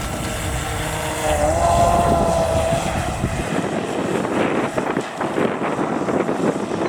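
Radio-controlled model boat's motor whining as it runs on the lake; the pitch steps up about a second in as it speeds up, then fades out, leaving a rough rushing noise.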